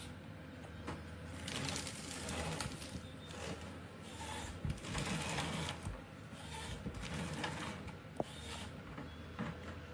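A machine's engine running steadily at a low pitch, with irregular surges of hiss and rattle over it and a single sharp click about eight seconds in.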